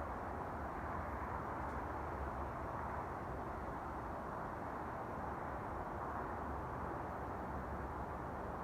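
Steady mechanical drone from overhead, a continuous rushing rumble that holds at one level without breaks. The recorder cannot explain it and says it is getting closer.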